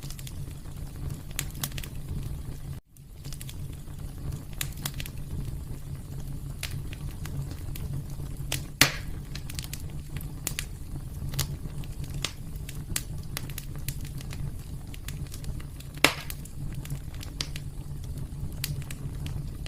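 Fire burning in a fireplace: a steady low rumble with frequent sharp crackles and two louder pops, one about halfway through and one near the end. The sound cuts out for a split second near the start.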